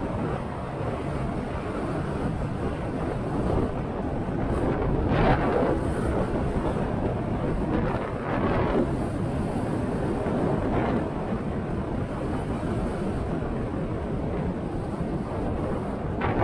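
Wind rushing over the microphone on a moving motorcycle, a steady low rumble of air with a few brief louder swells.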